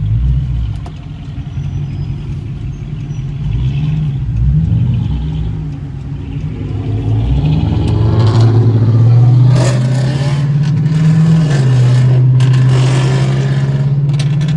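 V8 car engine under hard acceleration. It runs low and uneven at first, then gets loud from about halfway, its pitch climbing, dropping back at a gear change and climbing again.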